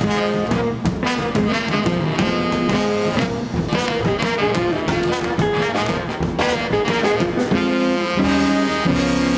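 Live band playing a rhythm-and-blues instrumental intro, saxophone and horn lines over guitar, bass and drums.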